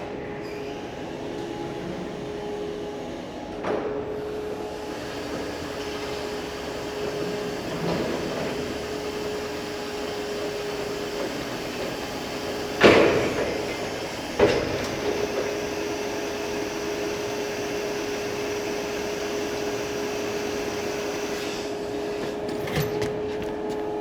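Electric reach truck running with a steady whine and a few sharp metal clanks, the loudest about 13 seconds in and another a second and a half later.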